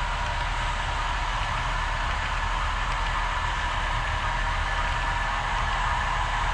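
HO scale model train running on the layout: a steady mechanical hum with a constant whine, without pauses or changes.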